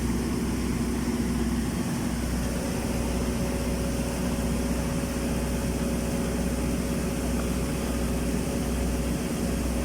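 Automatic girth welding rig running steadily during the first capping pass: a steady low machine hum with a faint held whine over an even hiss.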